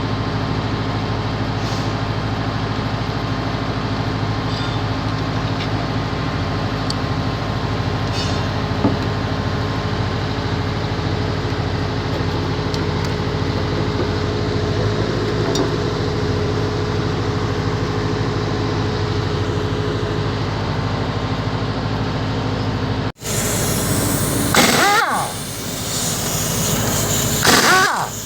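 An engine running steadily. About 23 seconds in it cuts off abruptly to a louder, noisier sound with two quick sweeps up and down in pitch.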